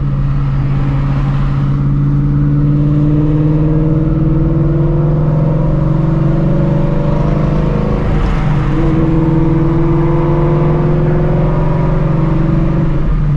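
Ford Mustang Shelby GT350's 5.2-litre flat-plane-crank V8, fitted with long-tube headers, running at low revs as the car moves slowly. Its note drifts gently up in pitch, then breaks and shifts briefly about eight seconds in before settling again.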